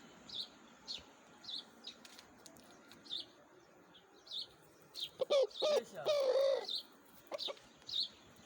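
A small bird chirping over and over: short, high, downward chirps about twice a second. About five seconds in comes a louder, lower call lasting around a second and a half.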